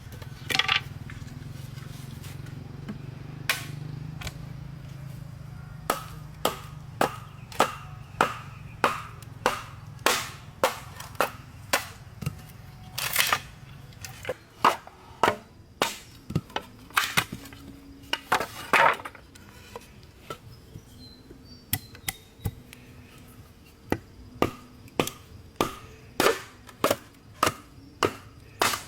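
Repeated chopping blows on wood, about one to two strikes a second, with a stretch of fewer strikes in the middle. The first few seconds hold mostly a steady low hum.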